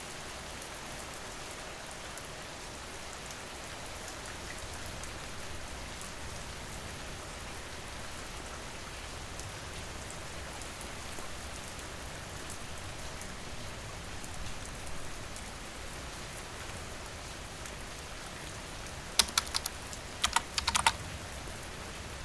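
Steady rain. Near the end comes a quick run of about ten sharp clicks, a little under two seconds long, louder than the rain.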